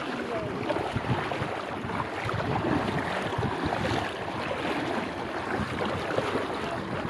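Steady rushing and splashing of river water, with some wind on the microphone.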